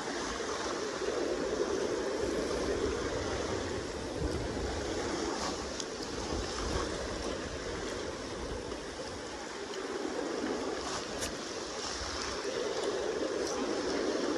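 Steady rush of the Kenai River's current, an even watery noise that eases slightly midway and swells again near the end.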